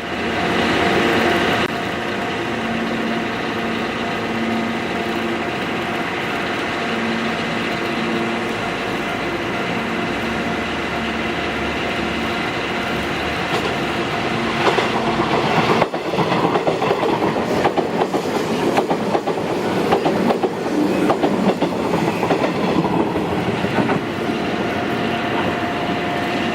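381-series electric express train running by on the track: a steady running hum with several held tones, then, from about halfway, a dense rapid clatter of wheels over rail joints as the cars pass.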